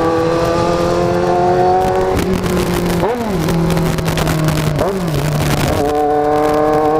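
Kawasaki Z750's inline-four engine running under way, its note steady at first, then dropping in steps with short blips of revs about three and five seconds in, as when downshifting while slowing.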